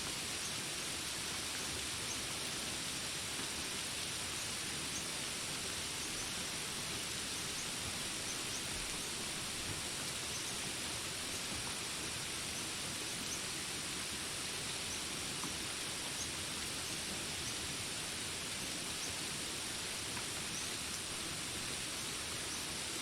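Steady rain falling in a jungle, an even hiss with faint short high ticks scattered through it.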